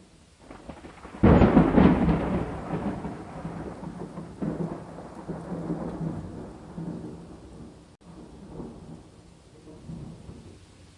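A thunderclap breaks suddenly about a second in and rolls on in a long rumble that fades away over several seconds, with a second surge partway through. Steady rain falls underneath.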